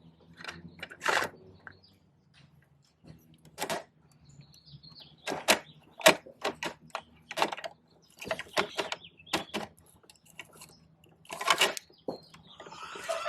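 Irregular clicks, clacks and rattles of a plastic Bruder toy side-loader garbage truck being handled, with a rustling scrape near the end.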